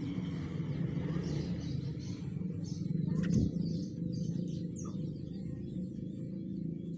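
Rengganis songbird chirping in short, scattered high notes over a steady low rumble, with a single click about three seconds in.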